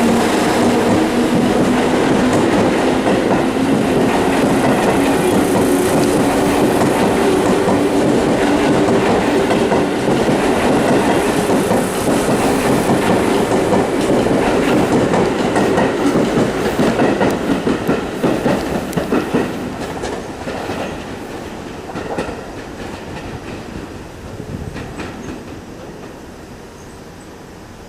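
Seibu Railway electric commuter train running past close by with a steady motor hum and wheel noise, then fading away over the last ten seconds as it moves off.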